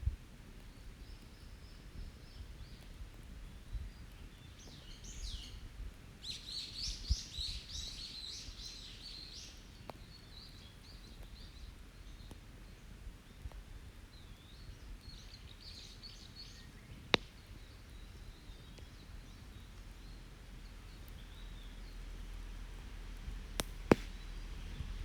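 Forest birds singing, with a dense burst of rapid chirping a few seconds in and a shorter one around the middle. An open wood campfire gives two sharp pops, one about two-thirds through and one near the end.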